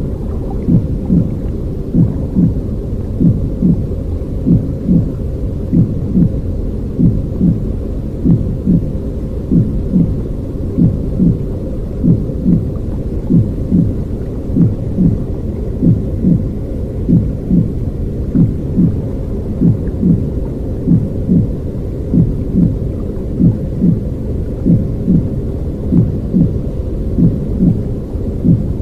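Low, muffled rumbling noise with regular soft thumps a little faster than once a second, like a slow heartbeat, looping steadily as a baby-soothing sound.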